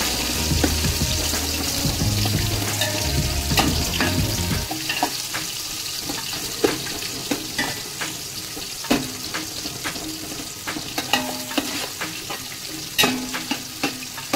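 Onion and garlic sizzling as they fry in hot oil in a large cooking pot, stirred with a spoon that knocks and scrapes against the pot in short sharp clicks. A low hum underneath stops about five seconds in.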